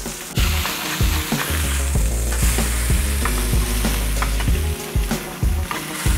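Beef patties frying hard in a hot pan, a loud sizzle that flares up about half a second in as they are flipped. A metal spatula clicks and scrapes against the pan.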